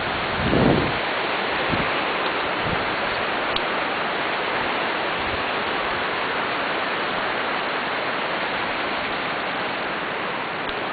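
Rushing flash-flood water: a steady, even hiss.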